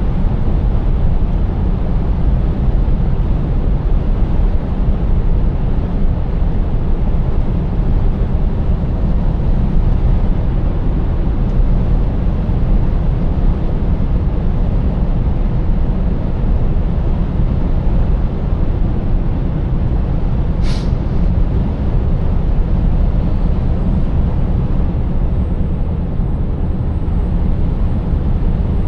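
Scania 590S truck with its 16-litre V8 driving at a steady pace: a loud, even, low rumble of engine and road noise. A single short, sharp click sounds about two-thirds of the way through.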